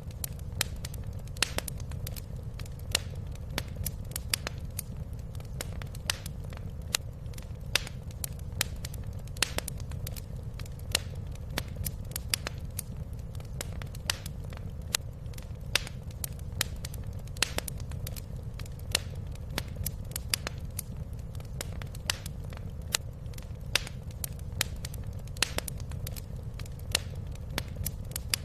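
Wood fire crackling in a fireplace: frequent sharp, irregular pops over a steady low rumble.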